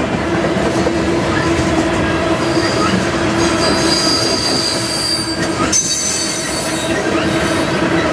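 Freight cars rolling past on steel rails with a steady rumble and clatter, their wheels squealing in thin high-pitched tones that shift pitch a little past the middle.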